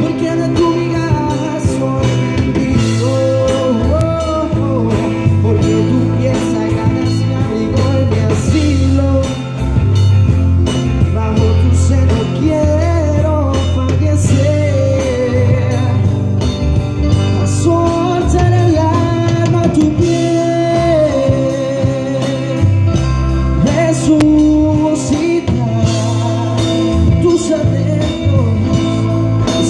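Live band music: an instrumental passage with a lead line that bends up and down in pitch over bass and drums.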